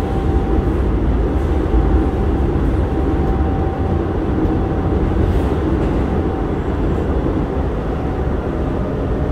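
Hokuso 7300 series electric train with Toyo GTO-VVVF control running at speed, heard from inside the passenger car: a steady rumble of wheels on rail with a faint steady whine above it.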